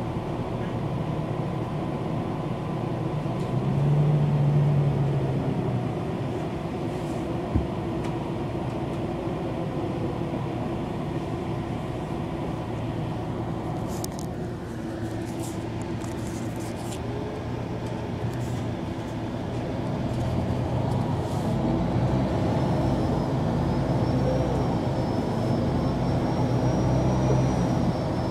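MAN NG 313 articulated city bus's diesel engine running with a steady hum, swelling briefly about four seconds in and growing louder again past the twenty-second mark. A single sharp knock comes about seven seconds in, a few clicks follow in the middle, and a thin high whine rises and falls near the end.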